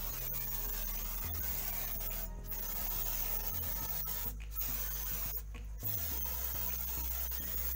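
Aerosol insecticide can (Hit spray) hissing in long bursts, with three short breaks where the nozzle is let go.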